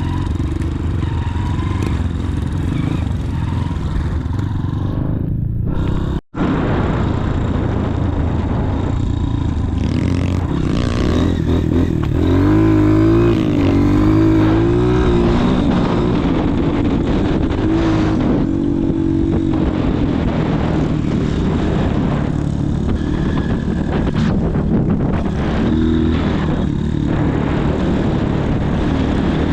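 Motorcycle engine running under way, its pitch rising and falling with the throttle around the middle. The sound drops out for an instant about six seconds in.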